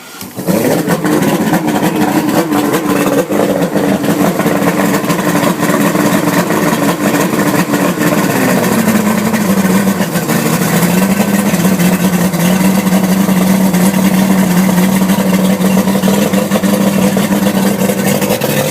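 Johnson two-stroke outboard motor running. It comes in abruptly at the start, holds a higher fast-idle speed, then drops to a lower, steady idle about halfway through.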